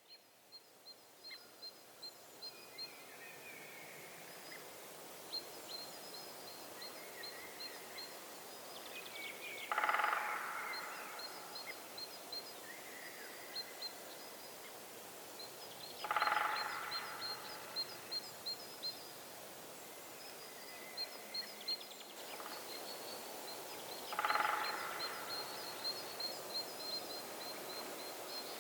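Birds calling in a forest. A small bird chirps in quick high series throughout, and a louder, lower call sounds three times, spaced several seconds apart.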